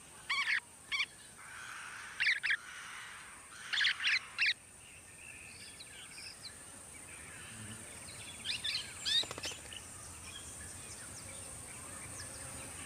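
Golden-shouldered parrots giving short chirping calls in several brief bursts, over a steady high-pitched hiss.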